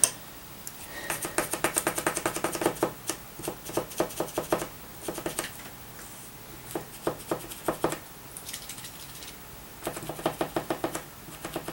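Tip of a new Zig chisel-point pen tapping and scratching quickly against paper in four bursts of rapid clicks.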